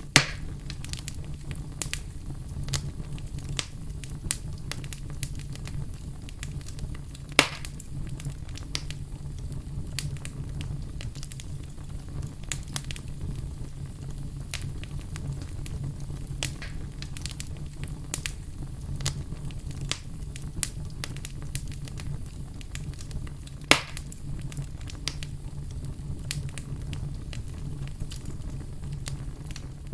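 Fire crackling steadily over a low rumble, with frequent small snaps and three sharp, louder pops: one right at the start, one about a quarter of the way in, and one about three quarters in.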